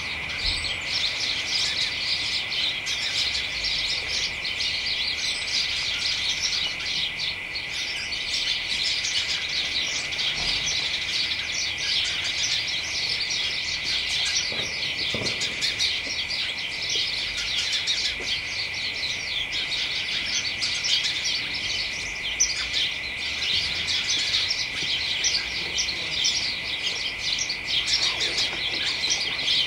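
A flock of house sparrows chattering in a hedge: many overlapping chirps, dense and continuous. A steady high-pitched hum runs underneath.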